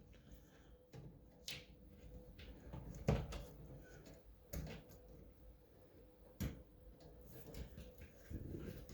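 Faint, scattered clicks and knocks of metal and plastic parts being handled while a retaining clip is worked at the back of a Moen shower valve cartridge, with one sharper knock about three seconds in. The clip will not go in because the cartridge is not pushed fully home.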